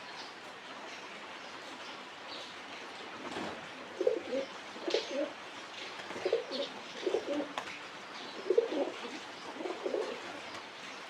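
Pigeons cooing: a run of short, low coos from about four seconds in until near the end, over faint high chirps.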